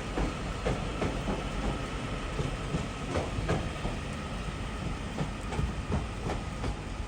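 A train moving along the platform tracks, its wheels clicking irregularly over rail joints above a steady low rumble.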